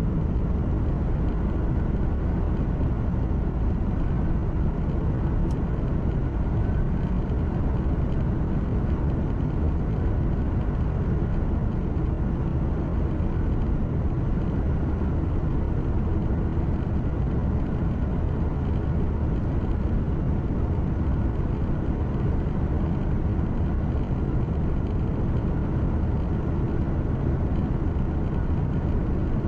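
Inside a truck cab while driving: the diesel engine's steady low drone mixed with tyre and road noise, unchanging.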